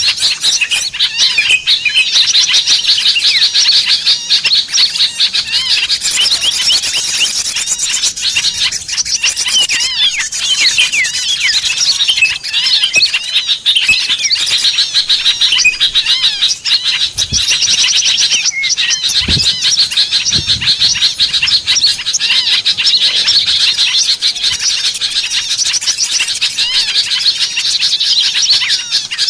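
Dense, continuous chatter of many small birds chirping and twittering at once, a recorded bird-lure call for drawing wild small birds down.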